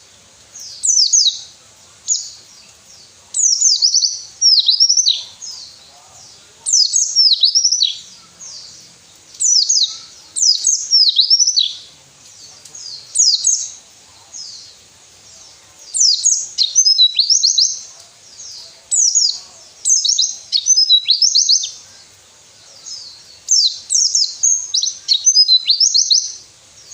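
White-eye (pleci) song: short, fast, high-pitched phrases of quick down-slurred notes, one about every two to three seconds with brief pauses between them.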